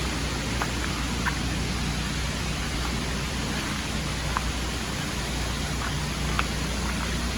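Steady rushing of a mountain creek and waterfall, an even hiss, with a few faint clicks scattered through it.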